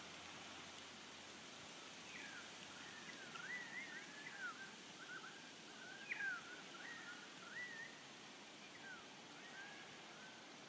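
A bird chirping repeatedly in short notes that slide up and down, starting about two seconds in and thinning out near the end, over a faint steady outdoor hiss.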